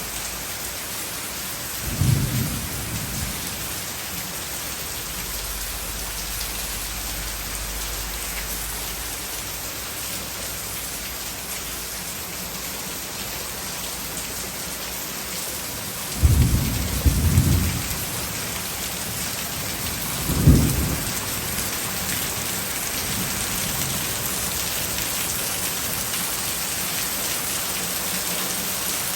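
Heavy rain falling steadily, a dense even hiss. Short low rumbles break through it about two seconds in, twice in quick succession past the midpoint, and once more a few seconds later.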